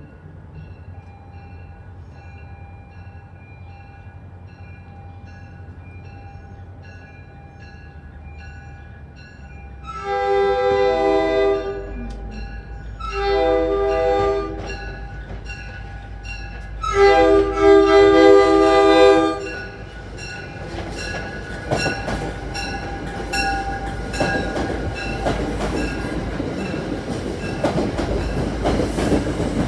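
A bell rings steadily about twice a second as a commuter train approaches, then the locomotive's multi-chime air horn sounds three blasts, the last the longest. The train then passes close by, wheels clacking over the rail joints and growing louder toward the end.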